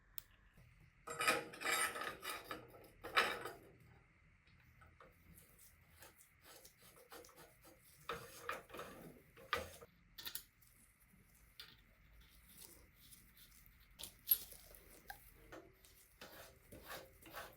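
Metal tools and small bicycle parts clinking and clattering in irregular bursts, loudest in the first few seconds, then scattered clicks with one sharp click late on.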